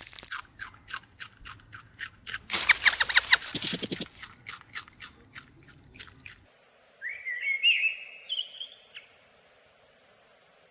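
Animal sounds: a rapid run of clicks with a buzzing chatter in the middle, then, after an abrupt cut, a bird's chirping call of gliding notes lasting about two seconds.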